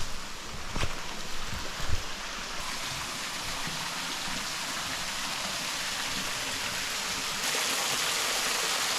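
Steady rush of flowing creek water, with a few sharp knocks in the first two seconds; the rush grows louder about seven and a half seconds in.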